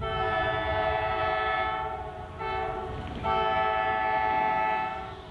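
Alco C420 diesel locomotive's air horn sounding a chord of several notes: a long blast, a short one, then another long blast, the grade-crossing signal pattern, over the low rumble of the passing train.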